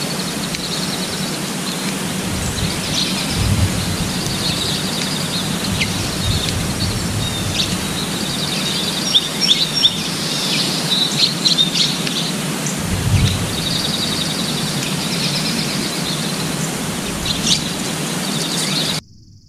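Several small birds chirping and trilling in short high calls, one after another, over a steady outdoor hiss; the sound cuts off suddenly near the end.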